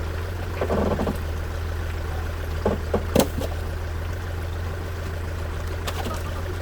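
An engine running steadily at idle, a constant low drone, with a few sharp knocks about three seconds in.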